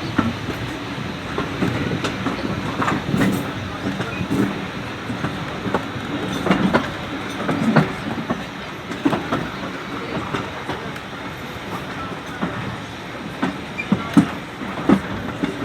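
Heritage steam-hauled train running along the track, a steady rumble broken by irregular clicks and knocks of the wheels over the rail joints.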